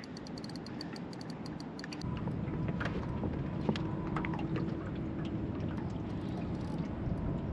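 Fishing reel being worked against a hooked fish: a fast run of fine clicks for about the first two seconds, then a louder low rumble with a few scattered clicks.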